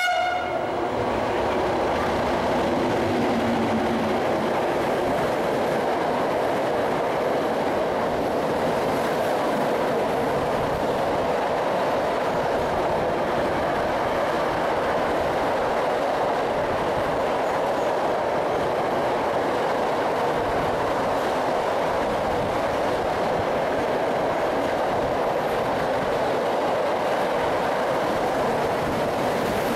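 Freight train of two-deck car-carrier wagons passing at speed alongside the platform: a loud, steady rumble and clatter of wheels and wagons. A brief pitched tone sounds at the very start and fades within the first few seconds.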